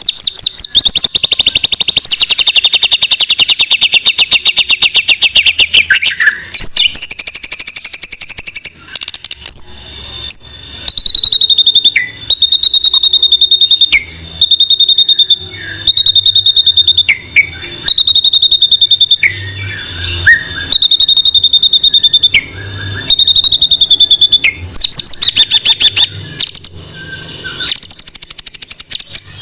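White-rumped shama (murai batu) singing loudly: a fast rattling trill for the first several seconds, then a string of short phrases built on a clear, high whistled note, repeated with brief pauses.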